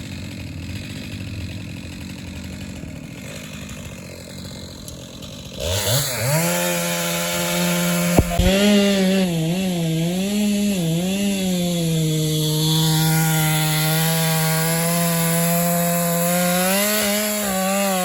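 Chainsaw throttled up about six seconds in and cutting through a downed tree, its engine pitch dipping and wavering as the chain bites into the wood, then running steadily at high speed. A single sharp knock comes about two seconds into the cut.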